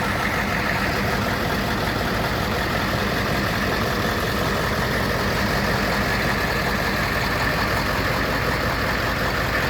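Work truck's engine idling steadily, with an unchanging rumble.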